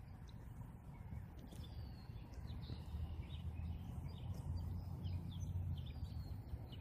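Small birds chirping faintly over a steady low outdoor rumble.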